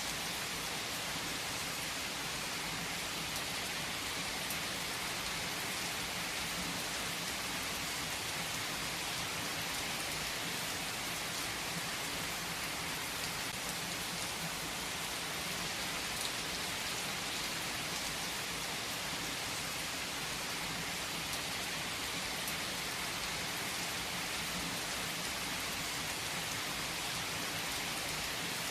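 Steady rain falling, an even hiss with scattered drop ticks and no let-up.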